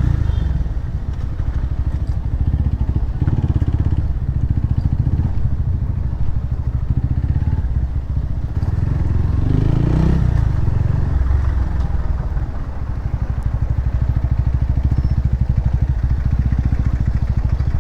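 Motorcycle engine and exhaust running steadily, with a dense, rapid low pulse of the engine firing. There is a short swell in the sound about ten seconds in.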